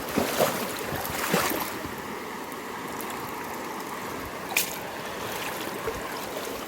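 Swollen river water rushing steadily after heavy rain, with a few short knocks or splashes.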